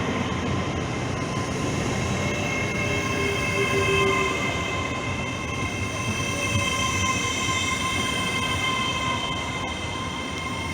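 An LNER Class 801 Azuma electric train moving through the platform. Its steady high whine of several held tones sits over the rumble of the wheels, and both ease slightly near the end.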